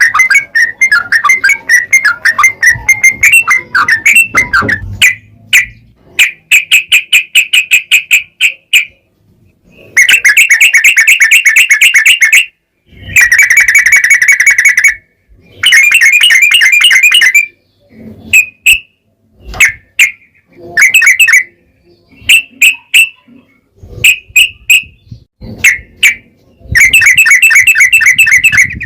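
Yellow-vented bulbul (trucukan) singing loudly in rapid, bubbling phrases of about two seconds each, separated by short pauses and scattered single notes.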